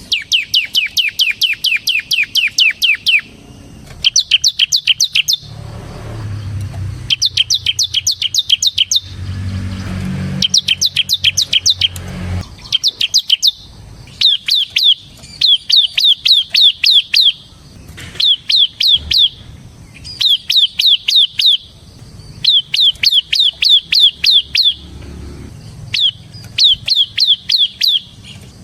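Bar-winged prinia (ciblek) singing in rapid phrases of sharp, high, downward-swept notes, about four or five notes a second. Each phrase lasts one to three seconds and is followed by a short pause.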